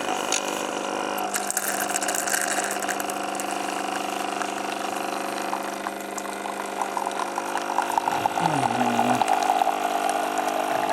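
Krups KP 1002 capsule coffee machine's vibratory pump running with a steady hum, water crackling and spluttering through it, louder in the last few seconds. The machine is leaking from every seam, so the water runs out down its sides.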